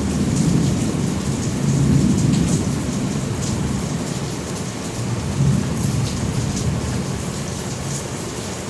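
Rolling thunder rumbling low and slowly dying away over steady rain.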